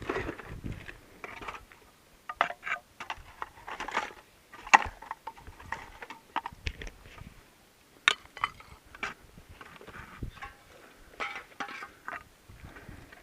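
Irregular clinks, knocks and crunches of old glass and metal junk being handled and shifted while rummaging through a dump pile.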